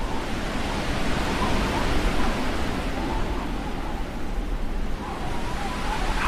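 Blizzard wind blowing steadily as a dense rushing noise, with a thin wavering whistle in the gusts that grows clearer near the end.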